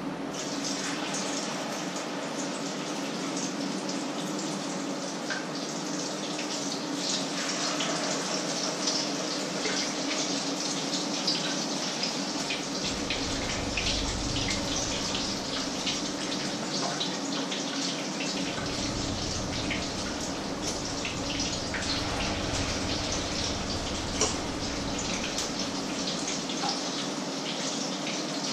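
Patties frying in a pan, a steady crackling sizzle dense with tiny pops, over a low steady hum.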